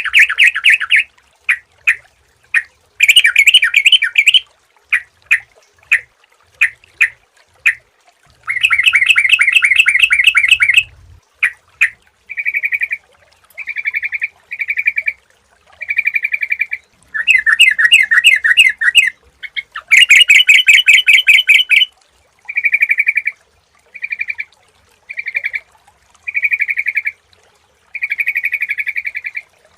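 Yellow-vented bulbuls (trucukan) singing: bouts of rapid chattering phrases lasting a second or two, broken up by short clipped notes with brief gaps.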